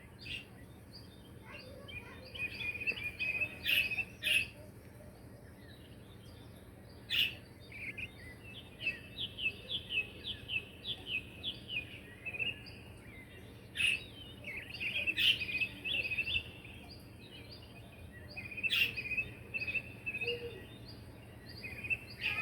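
Small pet birds chirping: runs of quick, high, short chirps, with a few sharper single calls scattered among them.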